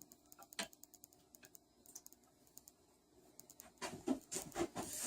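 Faint scattered light clicks and taps of tools and metal parts being handled on a small engine, one a little sharper about half a second in, with a brief rustle near the end.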